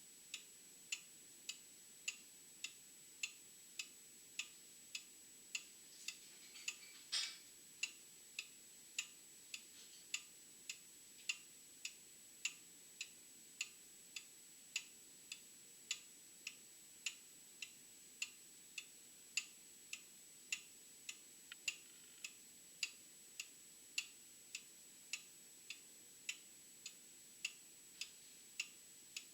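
Old clock ticking steadily, a little under two ticks a second. A brief louder rustling noise comes about seven seconds in, and a faint steady high-pitched whine runs underneath.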